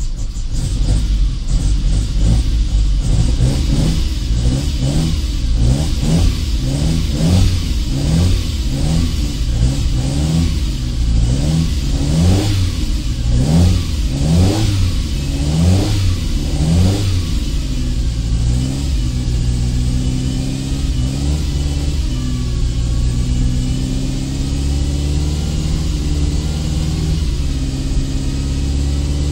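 Car engine revved in short repeated blips, about once a second, then settling about two-thirds of the way in to a steady idle. The engine is being warmed up after three months unused.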